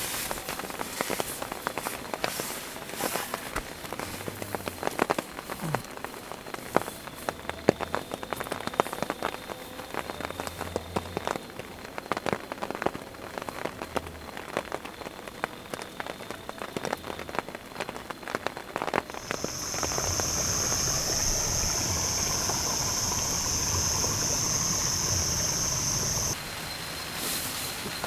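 Rain falling, with many irregular drops pattering on a surface. About two-thirds of the way in, a steady high-pitched insect buzz joins the rain and cuts off suddenly near the end.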